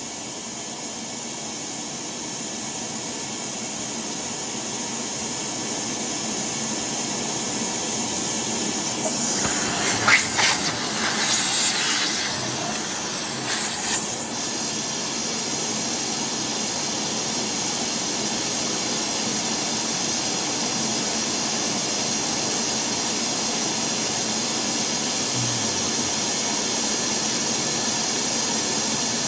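Shop vacuum running with a steady rushing hiss and a high motor whine while dirt is cleaned out of a gas boiler's burner. It grows slowly louder, with a few seconds of rattling and scraping about nine seconds in.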